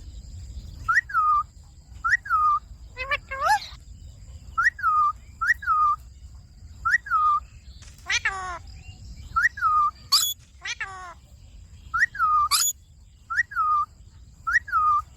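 Indian ringneck parakeet calling over and over: a string of short whistled notes that each drop in pitch, broken three or four times by a louder, harsher squawk.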